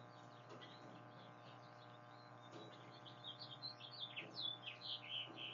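Small birds chirping and singing: a quick run of short, varied notes that grows louder in the second half, over a steady low hum.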